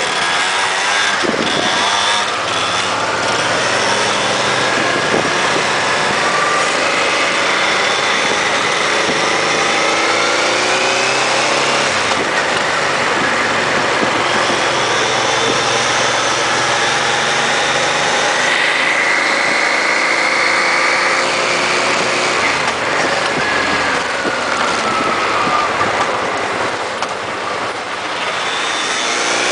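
Honda Transalp XL650's V-twin engine running while riding in traffic, its pitch rising and falling repeatedly with throttle and gear changes, over a steady rush of noise.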